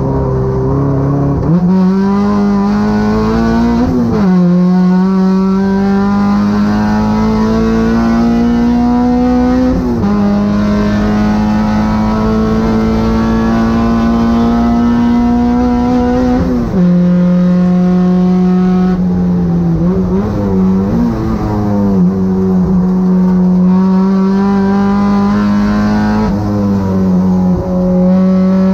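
K24 four-cylinder engine of a race-prepared Honda Civic at high revs under load, the pitch climbing slowly through each gear and dropping sharply at upshifts, with a cluster of quick downshifts with revs blipped about two-thirds of the way through.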